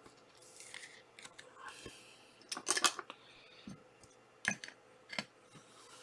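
Trading cards and card packs being handled: soft rustles and a few sharp clicks, with the loudest burst of crisp rustling about halfway through.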